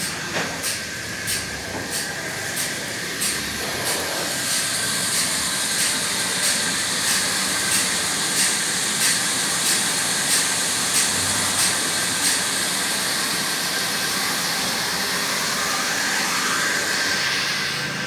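Sawmill machinery running with a steady hiss and a regular tick about every two-thirds of a second. The ticking stops about twelve seconds in while the running noise goes on.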